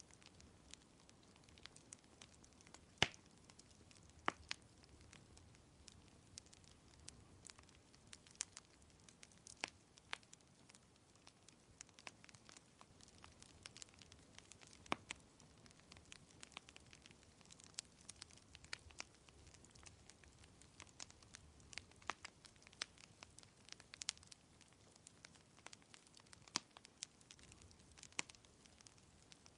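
Wood fire crackling: irregular sharp snaps and pops, a few louder ones about three and four seconds in, over a faint steady hiss.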